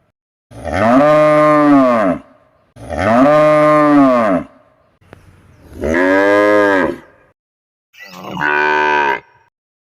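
Cattle mooing: four long moos with gaps between them, each rising and then falling in pitch, the last one shorter.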